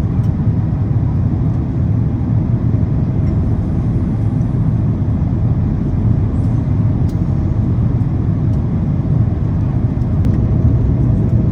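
Steady low rumble of a Boeing 767-400ER's engines and airflow heard inside the passenger cabin during the approach, with a few faint ticks.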